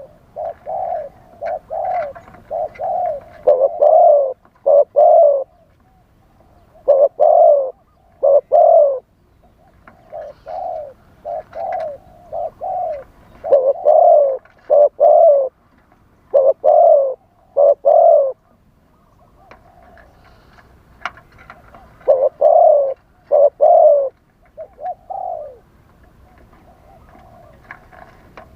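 Spotted doves cooing: repeated phrases of several short coos, with short pauses between phrases.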